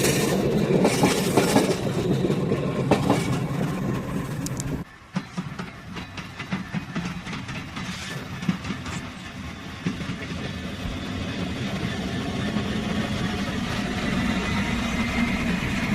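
A train passing close by, its wheels clattering on the rails. About five seconds in, the sound drops abruptly to a quieter, steady rumble with scattered clicks.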